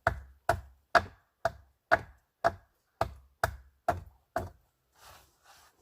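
A steady run of sharp chopping or knocking strikes, about two a second, that stops about four and a half seconds in.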